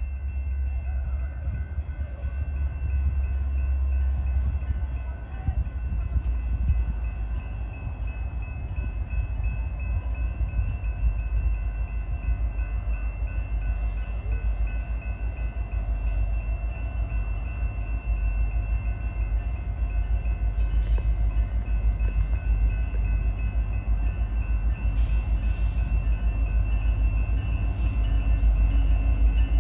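A CN freight train's diesel locomotives approaching: a low rumble that grows slowly louder, with faint steady high tones above it.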